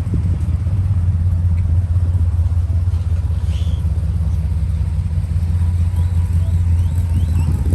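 A car engine idling close by: a loud, steady low rumble.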